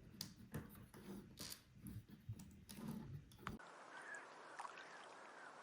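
Faint clicks and light knocks of plastic Lego pieces being handled and pressed together, which stop after about three and a half seconds and leave only a low hiss.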